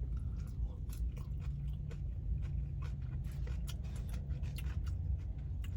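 A person chewing crispy food, a string of small irregular crunches, over a steady low hum.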